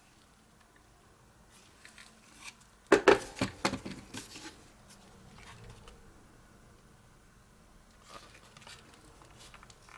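Hand handling of small hard parts: a quick burst of clicks and clatter about three seconds in, lasting around a second and a half, with a few faint ticks of handling before and after.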